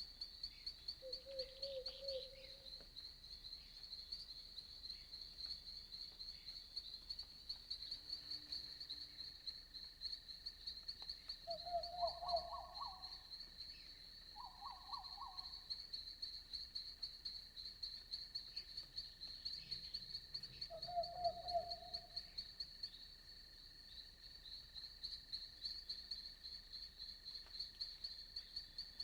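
Crickets chirping steadily in a fast, high pulsing rhythm, with a few short trilled frog calls breaking in about a second in, around twelve and fifteen seconds, and again near twenty-one seconds. Faint night-forest ambience.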